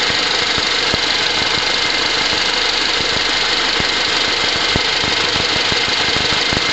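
Car engine idling, heard close up in its open engine bay: a steady hiss-like running noise with irregular light ticks.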